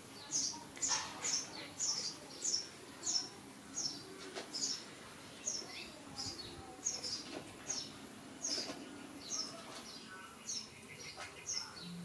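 A small bird chirping over and over: short, high-pitched chirps that fall in pitch, about two a second.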